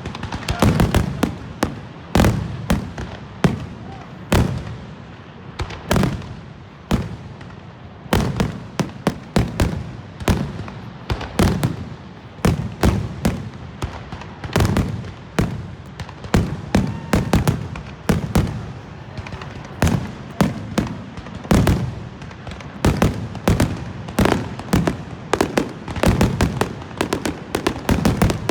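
Aerial fireworks display going off in a rapid, continuous run of bangs, several a second, with deep booms and sharp cracks.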